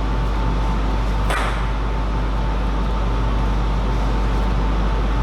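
Steady low hum with a thin steady whine over it, and a single sharp click about a second in.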